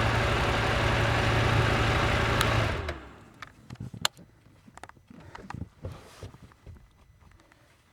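Husqvarna Norden 901's parallel-twin engine running steadily, then shutting off about three seconds in, its note falling away as it dies. After that come scattered small clicks and knocks.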